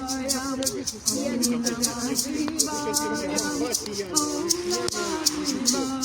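Singing in long held notes that step between pitches, over a hand shaker rattling a steady beat of about four shakes a second.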